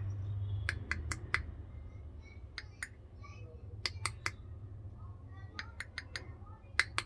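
Sharp, dry clicks in quick runs of two to four, over a low steady hum.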